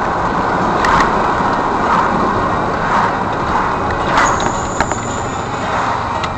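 Steady road and engine noise of a car driving, picked up by a dashcam in the cabin, with a few short knocks and a brief thin high whine about four seconds in.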